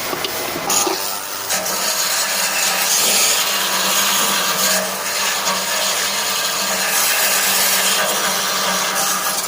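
Steady metalworking noise from work on stainless steel, a dense rasping hiss over a constant low hum that settles in after a brief uneven start.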